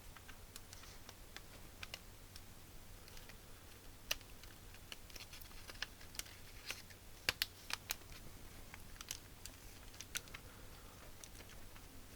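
Light, irregular plastic clicks and taps from Atari 65XE keyboard parts being handled and fitted back together, with a few sharper clicks about a third of the way in and just past the middle.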